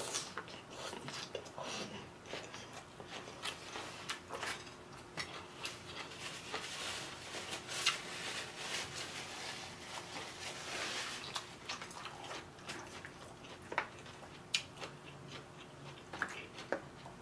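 Close-up eating sounds of a mouthful of rice vermicelli noodles and raw greens being chewed: soft wet mouth clicks and smacks scattered throughout, with a slurp of noodles right at the start.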